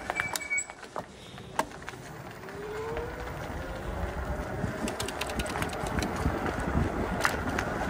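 Electric bike riding on a wet road at night: steady tyre hiss and wind noise, dipping early on and then building from about three seconds in, with a short rising whine and scattered sharp clicks.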